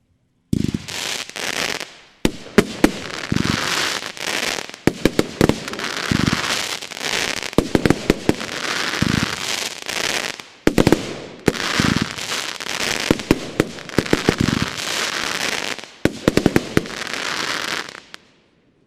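A 25 mm, 36-shot cup-type fireworks cake battery firing: a rapid string of launch thumps and sharp bangs over continuous crackling, starting about half a second in, with brief gaps near two, ten and sixteen seconds, and dying away near the end.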